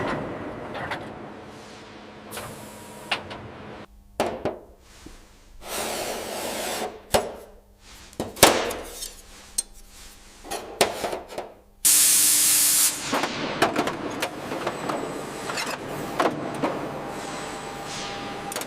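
Workshop tool noises: scattered knocks and clicks, with stretches of spraying hiss and a loud hissing burst about twelve seconds in.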